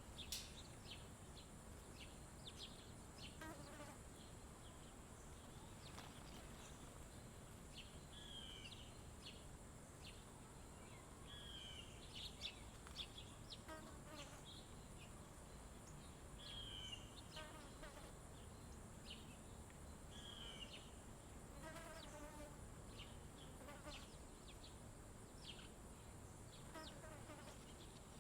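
Summer insects holding a steady, high-pitched drone, with small songbirds chirping over it. A short high phrase recurs every few seconds, and now and then there is a quick run of lower notes. All of it is faint.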